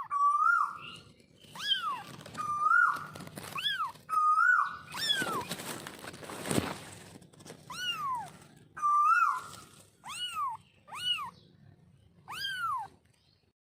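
Kitten mewing over and over: about a dozen short, high-pitched mews, each rising and then falling in pitch. A brief noisy rustle comes a little past halfway.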